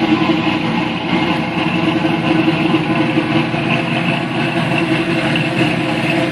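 Chevrolet C10 pickup's engine idling steadily.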